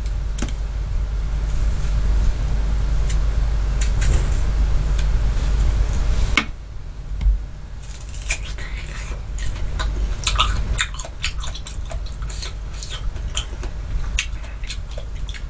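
Close-up crunchy biting and chewing of crisp, firm sweet persimmon, a dense run of sharp crunches from about eight seconds in. Before that a steady low hum with a few scattered clicks, which stops after a sharp click about six seconds in.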